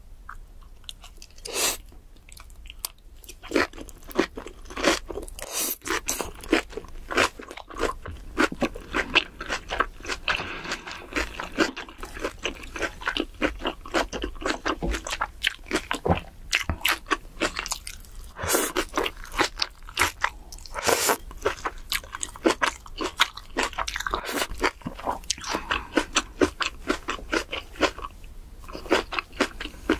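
Close-miked chewing of a big mouthful of a leafy ssam wrap with kimchi: many crisp, wet crunches in quick succession.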